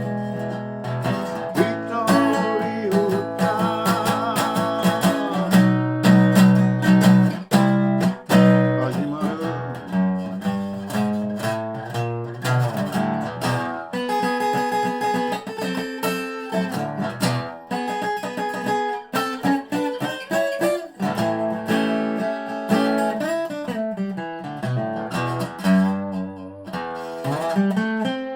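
1985 Dobro spider-cone resonator guitar played with a bottleneck slide in regular tuning: an instrumental passage of picked and strummed notes, some with wavering slide vibrato.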